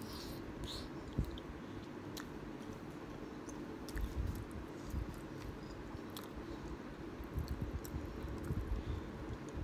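Close-miked chewing of a mouthful of kimchi ramen, soft wet mouth sounds in uneven bursts. A few light clicks are heard now and then.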